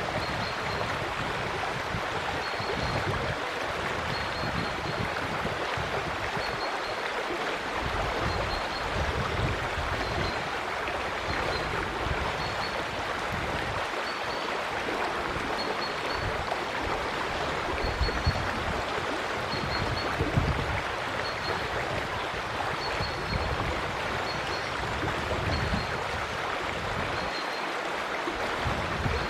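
River water rushing steadily, with an uneven low rumble underneath. Short high chirps from a bird repeat every second or two.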